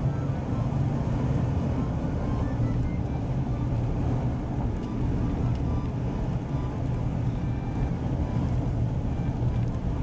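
Steady low rumble of a car driving, heard from inside the cabin, with faint music playing underneath.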